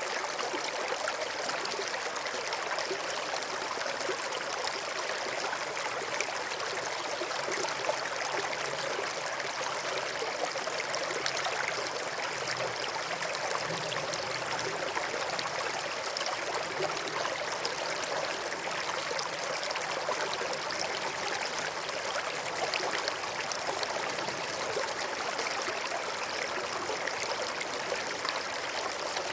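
A small stream flowing steadily, with water trickling and babbling over stones.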